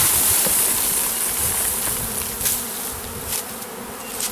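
Honeybee swarm buzzing in a steady, dense hum, the bees stirred up as their cluster is disturbed, with a few faint knocks.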